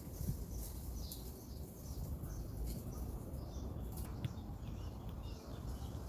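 Forest ambience: scattered short, high bird chirps over a steady low rumble of wind on the microphone, with a few faint clicks.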